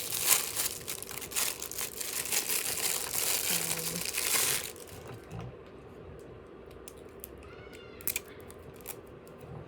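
Plastic packaging crinkling and tearing for about five seconds as a new hair trimmer is unwrapped, then a few light handling clicks near the end.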